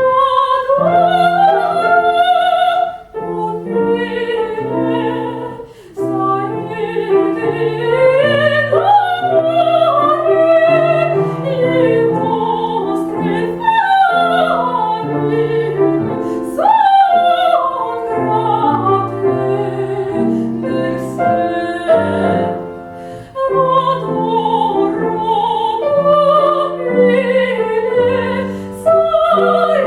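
A female classical singer singing with vibrato in operatic style, accompanied by a grand piano, in phrases with short breaks.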